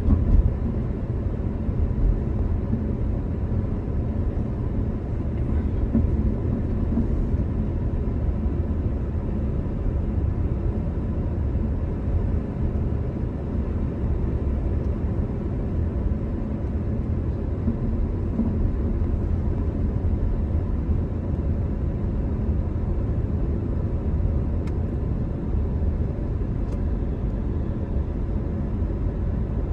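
Steady low road and engine rumble of a car in motion, heard from inside the cabin.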